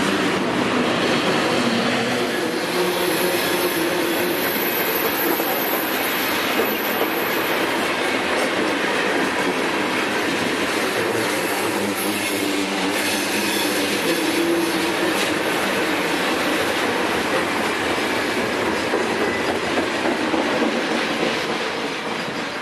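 Freight train tank cars rolling past on curved track: steady wheel-on-rail noise with a few knocks, and a thin high wheel squeal a few seconds in. The noise starts to fade near the end as the last car passes.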